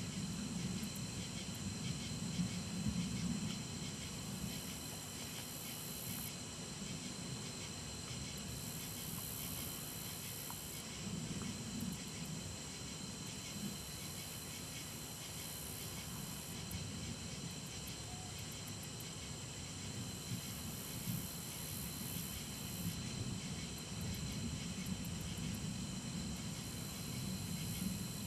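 Distant thunder rumbling low, swelling and fading several times, over a steady high chirring chorus of insects.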